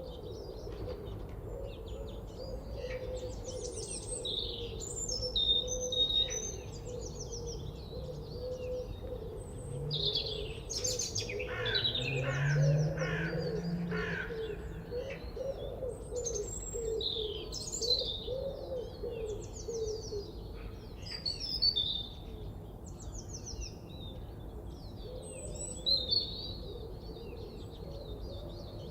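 Several small birds chirping and singing, many short high calls and trills overlapping, over a steady low background drone.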